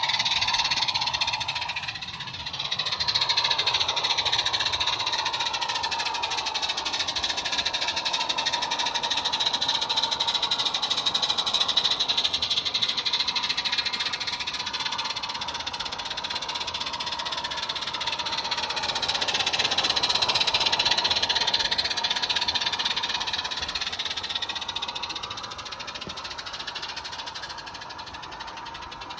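A 16mm-scale model locomotive running on its garden-railway track: a steady mechanical whine with fast, fine ticking, dipping briefly about two seconds in, loudest about two-thirds of the way through, then fading near the end as it moves away.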